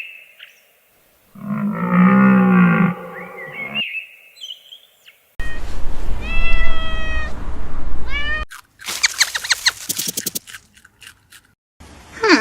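A string of short animal calls, one clip cut straight after another. There is a low pitched call, some chirps, a call with repeated falling glides, and then a rapid run of pulses.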